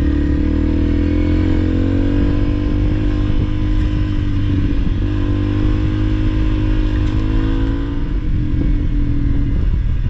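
Honda CRF300L's single-cylinder four-stroke engine running steadily while the bike is ridden along a dirt trail, its pitch rising and dipping a little with the throttle.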